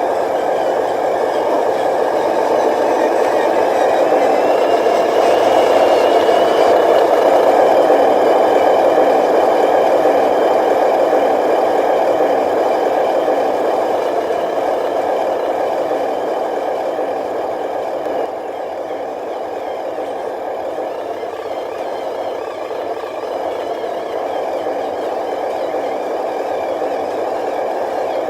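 Radio-controlled model dump truck running: a steady mechanical whir and rattle of its motor and gears. It grows louder a few seconds in, with a faint rising whine, and eases off after about eighteen seconds.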